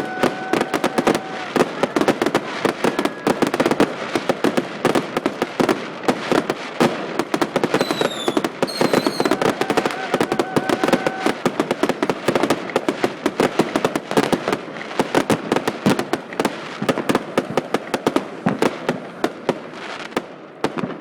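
Fireworks crackling: a dense, rapid rattle of small pops, with a few short whistling tones, one falling about eight seconds in. The crackle eases slightly near the end.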